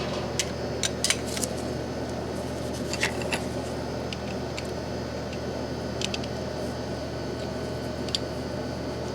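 Scattered light metallic clicks and clinks of burner parts and hand tools being handled, over a steady low hum.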